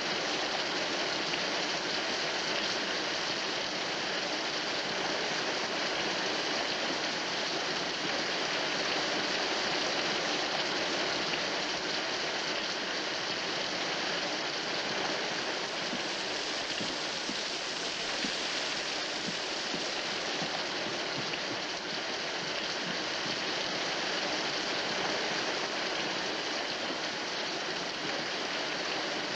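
Rain pouring steadily on the boat's canvas cover: a dense, even hiss of drops that never lets up.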